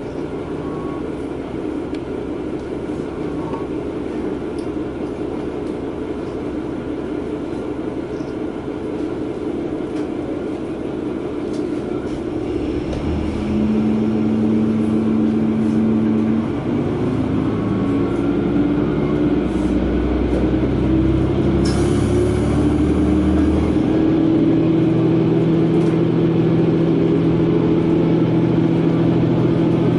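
Running noise heard inside a KiHa 120 diesel railcar. About halfway through, the diesel engine's note comes in, and from there it climbs slowly and steadily in pitch as the railcar picks up speed.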